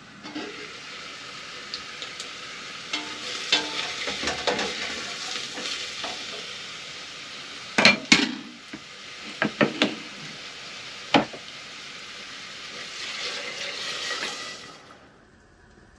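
Onions and celery sizzling in butter in a stainless steel soup pot, stirred with a spoon, with a few sharp knocks of utensil on pot about eight to eleven seconds in. The sizzling stops abruptly shortly before the end.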